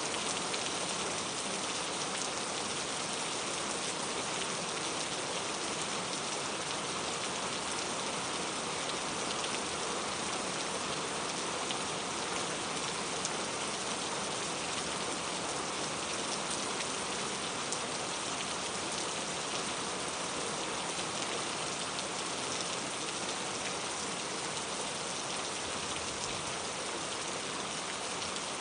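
Steady rain falling, an even hiss of many fine drops with scattered individual drop ticks, unchanging in strength.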